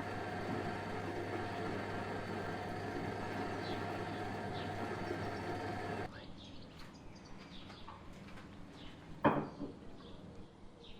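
A steady mechanical hum with several steady tones, which cuts off abruptly about six seconds in. After it, faint bird chirps are heard, and there is one loud knock about three seconds later.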